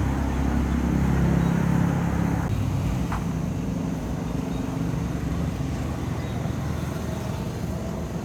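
A motor vehicle's engine running close by, a low steady hum that is loudest for the first two or three seconds and then eases off a little.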